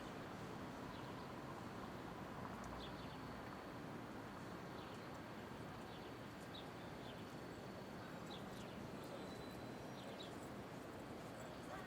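Steady downtown street ambience: a low, even hum of city traffic with scattered light clicks and taps, perhaps faint distant voices.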